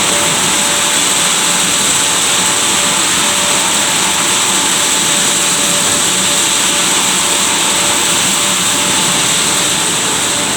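Christ Genius automatic car wash running: a loud, steady rushing hiss with two faint steady tones underneath.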